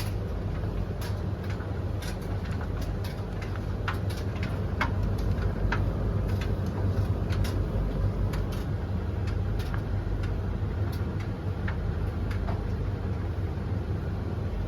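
Three tumble dryers running at once: a steady low drum rumble with irregular light clicks from the tumbling loads.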